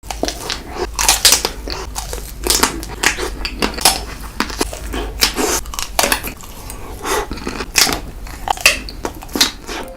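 Close-miked eating sounds: dense, irregular crunching and biting into the ice cream dessert.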